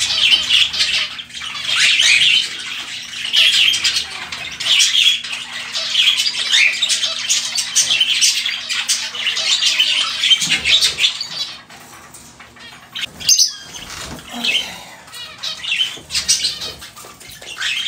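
Several pet birds squawking and chirping over and over, in loud calls about once a second; they quieten somewhat after about eleven seconds, with a few more calls near the end.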